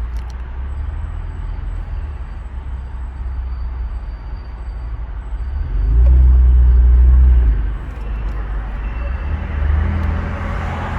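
Mercedes-Benz CLS400's twin-turbo V6 running through a valved exhaust with a straight-through mid-pipe, giving a deep, steady drone. About six seconds in it swells much louder for a second and a half, then settles back, with a smaller rise near the end.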